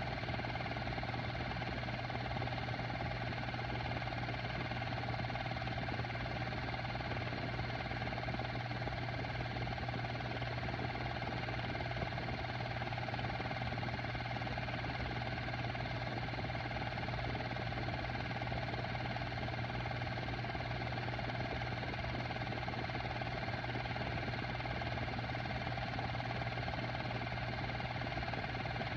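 Technicolor model 810 cartridge projector running with a steady, even motor hum.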